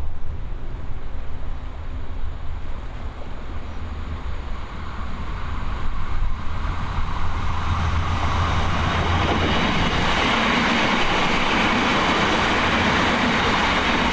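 A train passing close by: wheel and rail noise builds about halfway through into a steady loud rush, over a low rumble of wind on the microphone.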